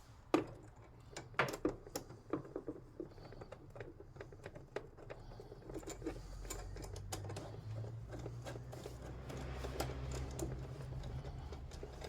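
Irregular light clicks and clinks of small metal parts being handled: new battery terminal clamps and their bolts being fitted together by hand.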